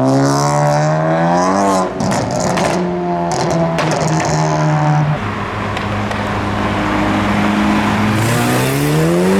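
Modified car engine revving as it accelerates away. The pitch climbs for about two seconds and holds, drops about five seconds in, then climbs again near the end.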